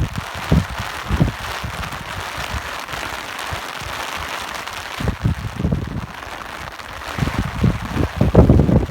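Steady rain hiss with irregular gusts of wind buffeting the microphone in low rumbles, the gusts strongest near the end.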